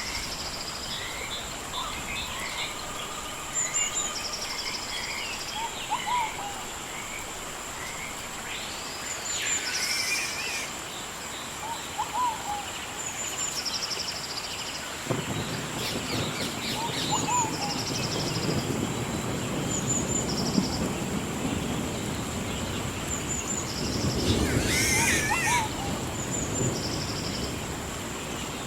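Several birds singing and calling, with short chirps repeating again and again, over a soft steady hiss of gentle rain. About halfway through, a lower rushing noise joins and swells briefly near the end.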